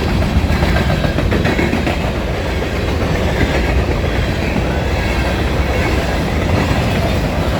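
Grain train's covered hopper cars rolling past, a loud, steady rumble of steel wheels on the rails.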